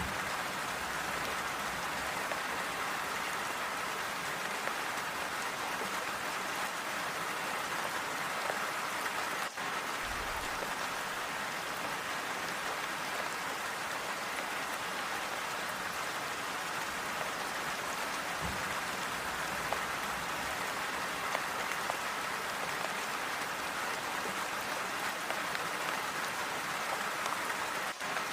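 Steady, calm rain falling, a continuous hiss with scattered individual drops, broken only by a momentary dropout about nine seconds in.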